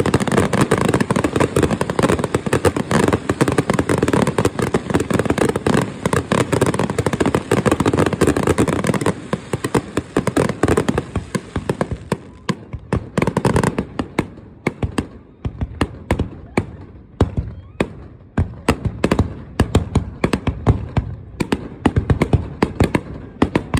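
Fireworks going off in a dense, continuous barrage of bangs and crackles, which thins out about halfway through into separate sharp bangs with short gaps between them.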